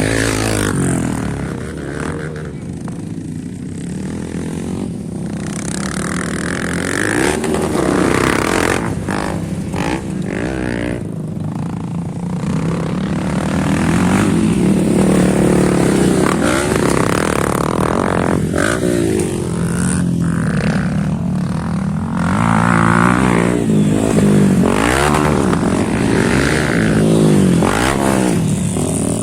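Motocross dirt bike engines revving and running, the pitch rising and falling again and again as the bikes accelerate and shift through the gears.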